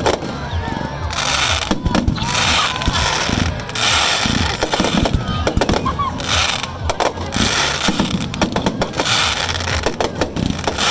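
Fireworks display going off: a run of sharp bangs, with a long crackling burst every couple of seconds.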